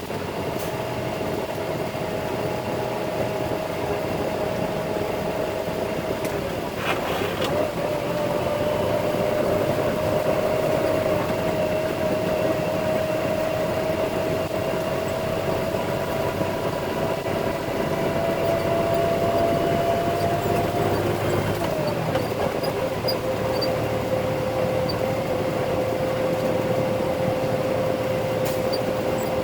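Concrete mixer truck's diesel engine and drivetrain running under load while climbing a steep grade. A steady whine sits over a low rumble; it steps down in pitch about seven seconds in, rises slowly, then drops again about twenty-one seconds in.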